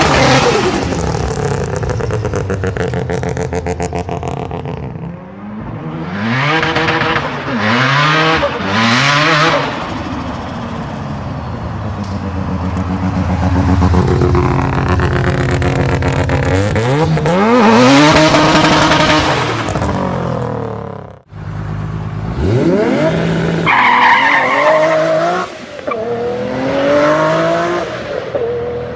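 Turbocharged car engines revving hard, their pitch climbing and dropping again and again as they rise through gears, with bursts of hiss between the revs. The sound breaks off sharply about 21 seconds in, then another engine revs up and down in the same way.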